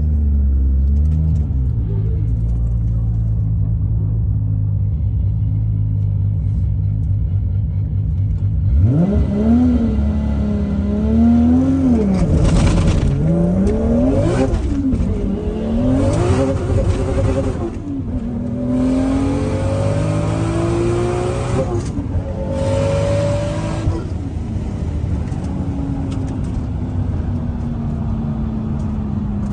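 Single-turbo Toyota Supra engine running steadily, then from about nine seconds in revving up and down several times, with short loud bursts of hiss between pulls; near the end it settles to a steady, slowly falling note.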